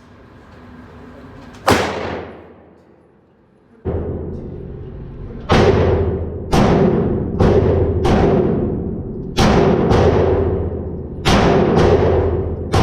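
A Glock 19 Gen 4 9mm pistol firing about nine shots, one single shot and then a steady string at roughly one shot a second, each with a long echoing tail.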